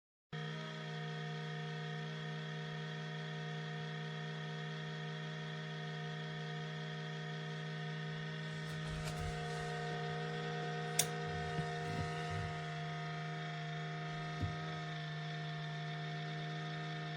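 Steady electrical hum made of several constant tones, with a few light clicks and taps past the middle.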